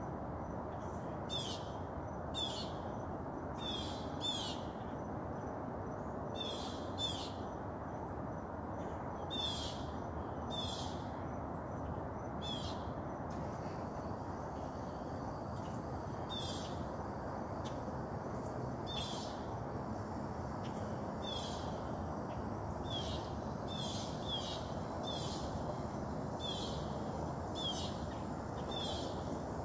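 Short high-pitched animal calls, repeated about once a second at irregular intervals, over a steady low rushing background noise.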